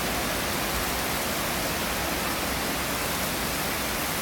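Heavy rain during a thunderstorm, falling steadily as an even hiss, with no clap of thunder.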